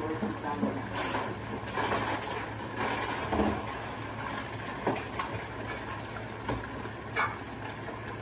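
Chicken pieces deep-frying in hot oil in a skillet: a steady sizzle with irregular louder crackles and pops.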